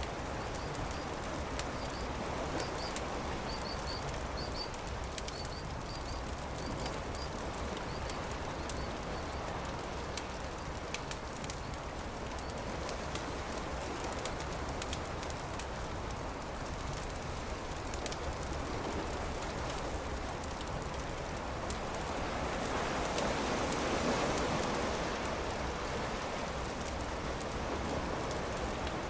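Campfire crackling with many small pops over a steady rushing wash of surf that swells about three-quarters of the way through. A bird chirps repeatedly in the first several seconds.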